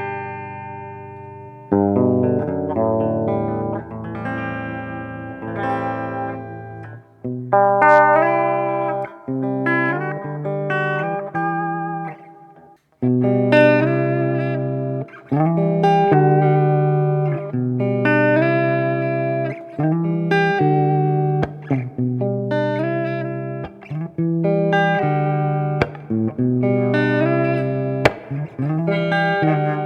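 Electric guitar, a 1989 Epiphone Les Paul with Seymour Duncan Pearly Gates pickups, played through a Fender Mustang GT100 amp. It plays a run of struck chords and single notes, each left to ring out, with a short break about halfway through.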